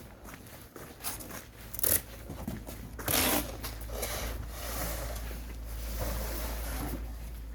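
Rustling and scraping of sweet potatoes and packing materials being handled during boxing, with brief louder scrapes about two and three seconds in.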